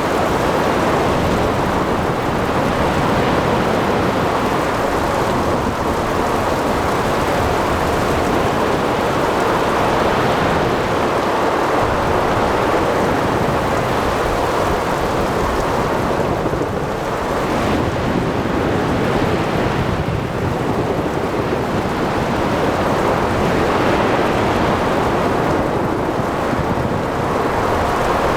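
Ocean storm ambience: a steady rush of rain, wind and breaking waves with a continuous low rumble of thunder.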